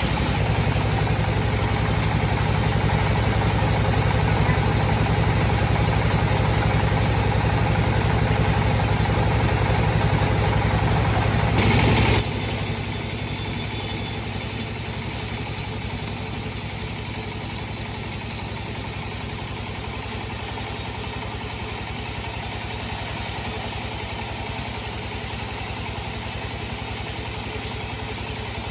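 Sawmill bandsaw machine running steadily, louder for about the first twelve seconds, then briefly surging and dropping to a lower, even level.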